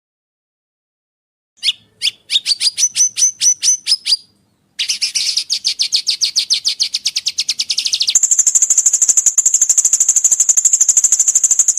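Songbird song edited together as training material. After a second and a half of silence comes a run of quick rising chirps, about five a second. A dense rapid trill follows, and it changes about eight seconds in to a thin, very fast high trill.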